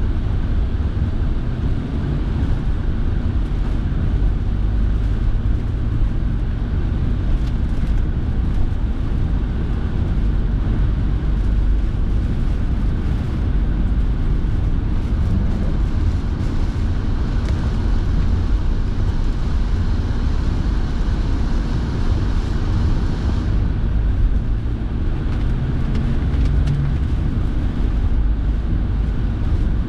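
Steady road and engine rumble heard inside a moving car's cabin, with the car heater fan blowing. A faint high hiss cuts off suddenly about three-quarters of the way through.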